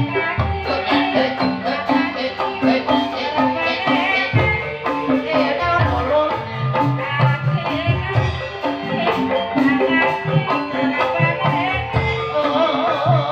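Live ebeg dance accompaniment music: tuned percussion playing repeated melodic patterns over a steady drum beat.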